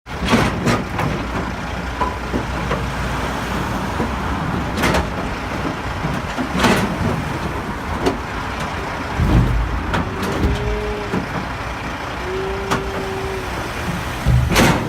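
A livestock truck's engine running amid traffic noise, with several sharp bangs spread through the stretch, the loudest near the end, and a heavy low thump midway. These fit the distressed cow kicking and knocking against the truck's sides while trying to escape. Two brief high squeals sound a little later.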